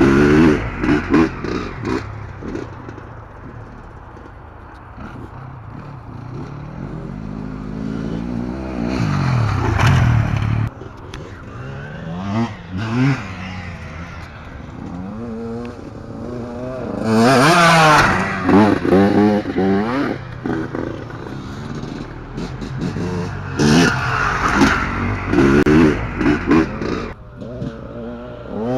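Two-stroke motocross bikes revving up and down through the gears as they ride by, the engine pitch climbing and dropping again and again. They come closest and loudest about a third of the way in, around two-thirds through, and again near the end.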